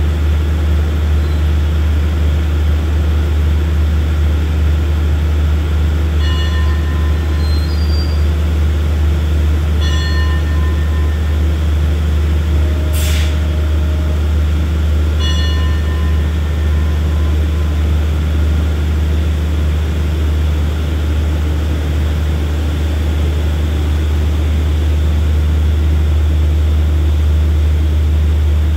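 Diesel passenger train standing at a platform, its engines giving a loud, steady low hum. Three short, high beeping tones come at about 6, 10 and 15 seconds, and a brief sharp hiss about 13 seconds in. The hum grows slightly louder near the end as the train begins to pull away.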